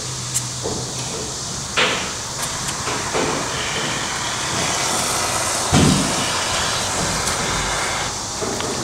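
Urethane foam gun hissing steadily as expanding foam is dispensed into a gap, with two knocks, about two and six seconds in.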